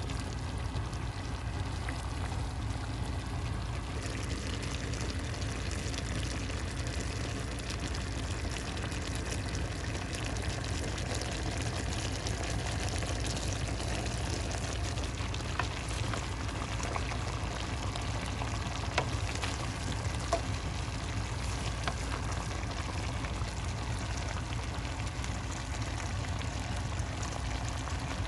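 Food cooking in a pan on the stove, a steady sizzling and bubbling hiss with a low hum underneath and a few small pops.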